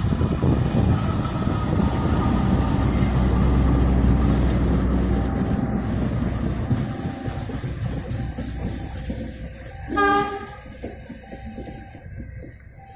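Train passing close: a heavy rumble of wheels on rail with a steady high wheel squeal, dying away over the last few seconds. About ten seconds in, a short horn blast.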